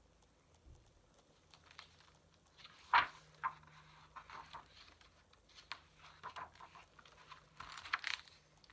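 Soft handling noise from a picture book being opened and its pages turned: paper rustling and light taps, with a sharper tap about three seconds in and a longer rustle near the end.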